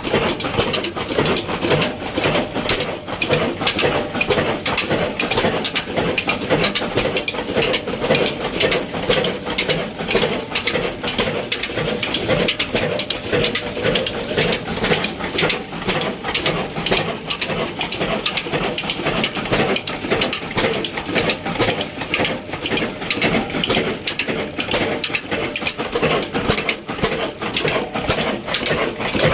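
Old diesel engine running steadily, a fast, even mechanical clatter.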